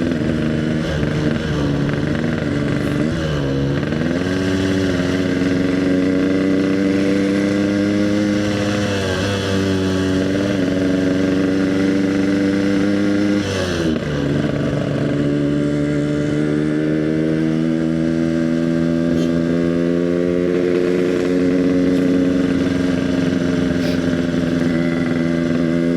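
Yamaha RX King's single-cylinder two-stroke engine running through an EnzyProject exhaust while being ridden, its note rising and dipping with the throttle. About 14 seconds in the pitch drops suddenly, then climbs slowly and steadily.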